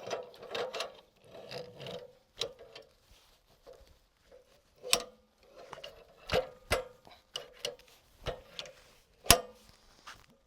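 The steel log clamp on a portable bandsaw sawmill is worked tight against a log. It gives irregular metallic clicks and clanks that ring briefly, and the loudest clank comes near the end.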